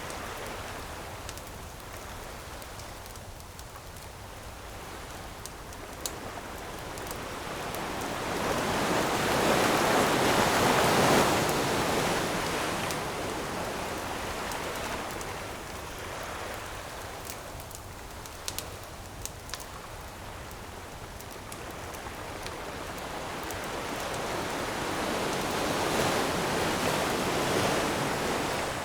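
Ocean waves washing onto a shore in slow swells: one builds and breaks about ten seconds in, another near the end. A campfire pops and crackles a few times in between.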